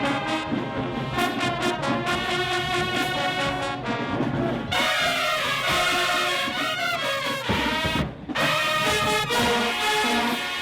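High school marching band brass section playing a loud, full passage, with a brief break about eight seconds in.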